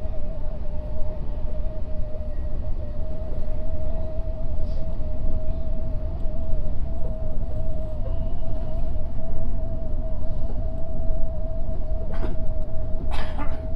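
Odakyu 8000-series electric train running along the line, heard from inside the leading car. There is a steady rumble of wheels on rail with a constant hum over it, and a couple of short clicks near the end.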